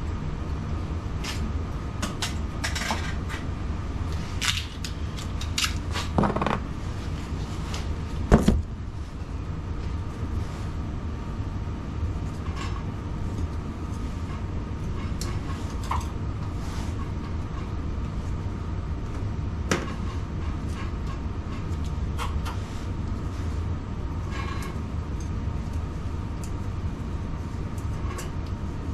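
A steady low hum with a faint steady tone over it, broken by scattered clicks and knocks of things being handled. The knocks are densest in the first nine seconds, and the sharpest comes about eight seconds in.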